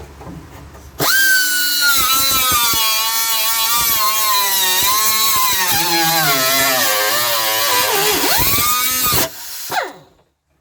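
Handheld power tool starting about a second in and running with a high whine, its pitch sagging and wavering as it is loaded against the truck's sheet metal, dipping sharply near the end, then stopping about nine seconds in.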